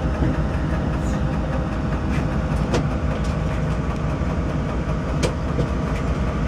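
Diesel passenger train heard from inside the carriage while running along the line: a steady low rumble of engine and wheels on rail, with a few sharp clicks from the track.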